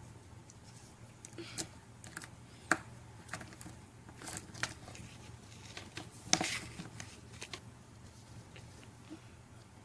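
Small clicks, taps and light crinkling from a Kinder Surprise egg's wrapper and plastic toy capsule being handled, with two sharper clicks about three and six seconds in.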